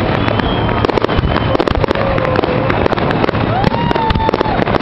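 Fireworks display: aerial shells bursting overhead in a dense, continuous run of bangs and crackles, many sharp reports a second with no let-up.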